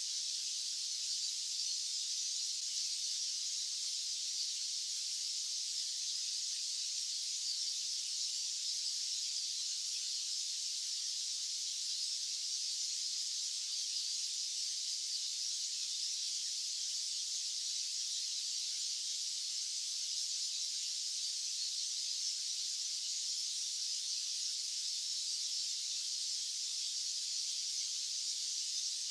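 Steady, unchanging white-noise hiss, high-pitched with no low end, running without any variation.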